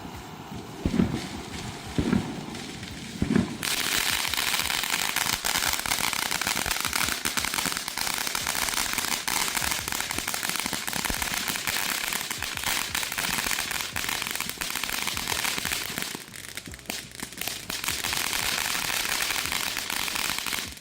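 Consumer fireworks fountain (Freedom Fireworks Mount Magma) in its finale. A few dull low pops about a second apart give way, about three and a half seconds in, to a dense, continuous crackle. The crackle thins briefly near the end, then picks up again.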